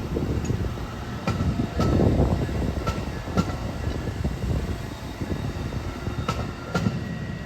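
Amtrak Northeast Regional passenger train passing with a steady rumble. Its wheels click over rail joints, several of the clicks in pairs about half a second apart.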